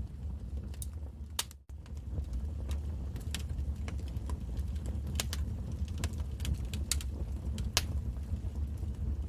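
Wood fire crackling: irregular sharp pops and snaps over a steady low rumble of the flames. The sound cuts out very briefly about a second and a half in.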